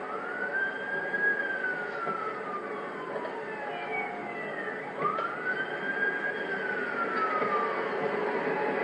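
A siren wailing. Each cycle rises quickly in pitch, then falls slowly, repeating about every five seconds over a steady rushing noise, and the sound grows gradually louder.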